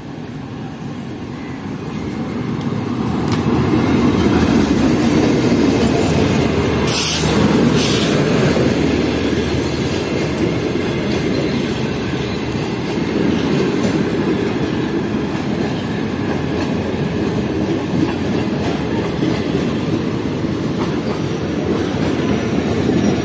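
Passenger train passing through a station without stopping, headed by a GEU-40 diesel-electric locomotive. It grows louder over the first few seconds as the locomotive comes up, then the coaches roll by with a steady rumble and wheel clatter on the rails. Two brief sharp noises cut through about seven and eight seconds in.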